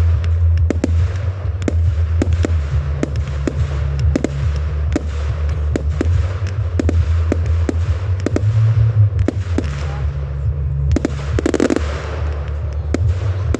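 Fireworks going off: an irregular run of sharp bangs and crackles, a few a second, with a bigger burst near the end, over a steady low rumble.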